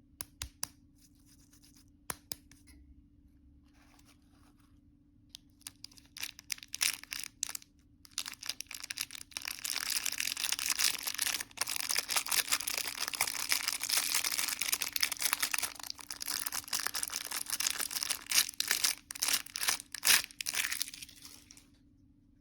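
Candy wrapper being handled and torn open: a few light clicks at first, then dense crinkling and crackling of the wrapper from about eight seconds in, which stops near the end.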